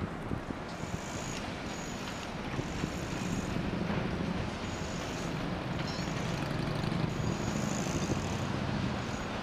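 Road traffic passing: a steady rumble of vehicle engines and tyres that swells and eases as vehicles go by.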